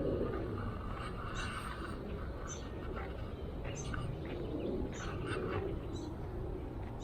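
Birds chirping: short, scattered calls throughout, over a low steady background rumble.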